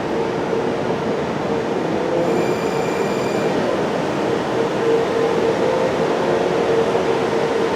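Washington Metrorail train running past with a steady rumble and a held mid-pitched tone, and a brief high ringing squeal for about a second, two seconds in.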